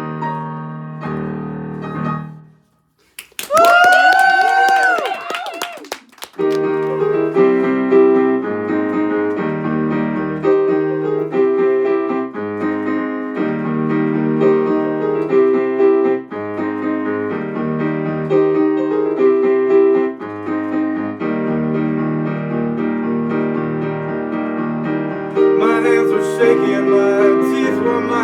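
Piano playing a steady run of chords, changing about every two seconds. Near the start the piano breaks off briefly, and a short pitched sound that glides up and down, with sharp clicks, fills the gap before the chords resume.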